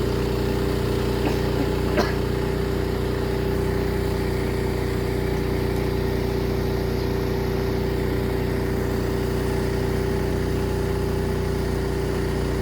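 A motor running steadily at one constant pitch, with a single sharp click about two seconds in.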